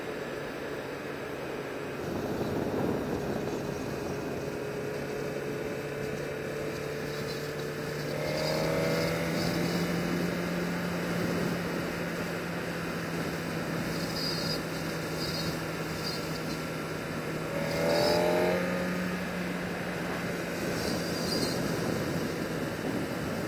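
Sport bike running at a steady cruise with wind noise, its engine holding a steady drone, with a brief rise in engine pitch about eight seconds in and again near eighteen seconds.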